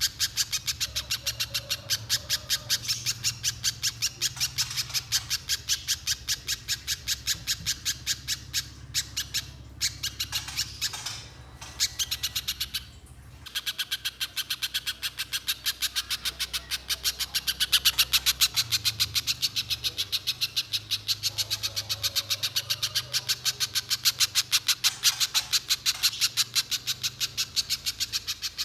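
Little spiderhunter calling non-stop: a long, fast run of sharp, high notes, about three or four a second, broken by a short pause near the middle.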